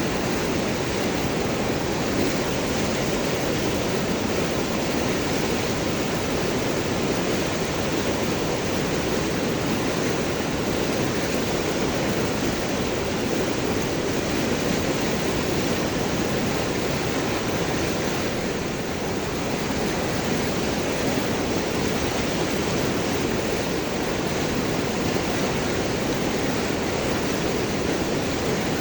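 River water flowing and gurgling over and around large rocks, a steady rushing noise.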